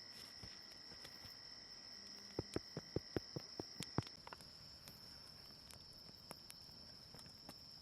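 Steady, high-pitched chirring of insects in the bush, with a quick run of about eight sharp clicks near the middle.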